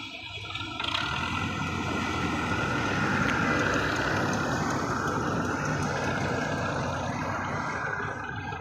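Tractor engine under heavy load as it strains to pull a stuck, fully loaded trolley free. It builds about a second in, runs hard and steadily, then eases off near the end.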